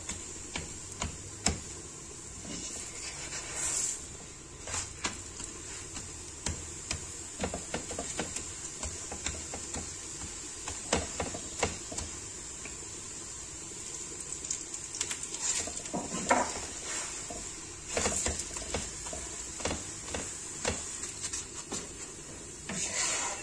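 Paratha frying in oil in a pan over a low flame, with a steady sizzle and scattered clicks and scrapes of a metal spoon against the pan as the paratha is pressed and turned.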